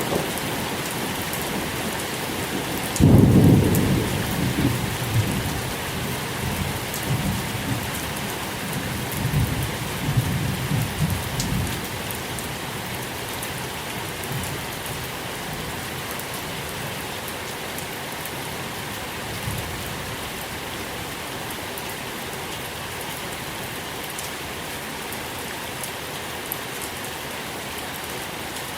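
Steady rain falling, with a sudden thunderclap about three seconds in that rolls on in waves of low rumbling and fades out by about twelve seconds in.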